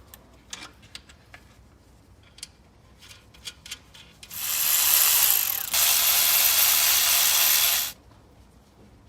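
A few light clicks of parts and plastic clips being handled, then a loud, steady whirring hiss from a power tool about four seconds in, lasting about three and a half seconds with a short dip in the middle.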